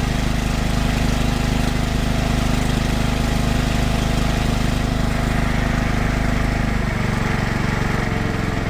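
MTD SN 150 A ride-on mower's petrol engine running steadily after a warm start without choke. Its note changes slightly about seven seconds in.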